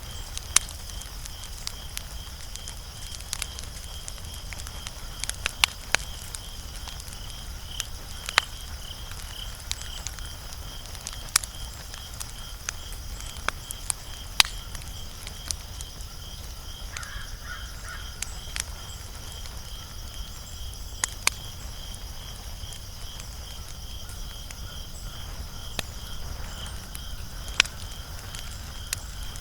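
Wood fire crackling, with sharp pops and snaps at irregular moments, a few of them loud, over a low steady rumble. A steady high pulsing trill runs underneath.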